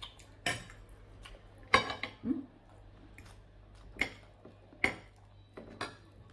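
Eating utensils clinking and scraping against dishware while someone eats noodles, about seven sharp irregular clinks, the loudest near two seconds in.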